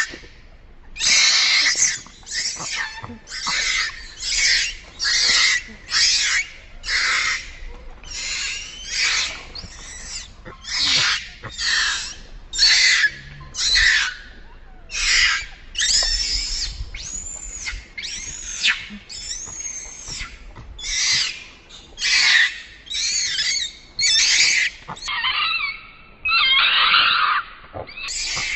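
A monkey's high-pitched cries, repeated about once a second, several of them rising and then falling in pitch.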